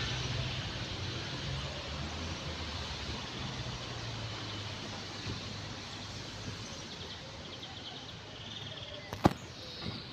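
Steady outdoor background noise with faint, short high bird chirps in the second half, and a single sharp click about nine seconds in.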